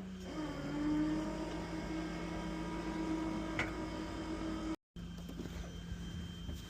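Recovery truck's hydraulic pump whining steadily over the truck's running engine, its pitch rising slightly in the first second. The sound drops out completely for a moment about two-thirds of the way through, then the lower hum carries on.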